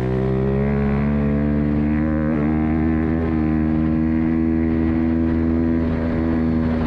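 YCF 125 pit bike's single-cylinder four-stroke engine running at steady revs under way, with brief small dips in pitch about two and a half and three seconds in.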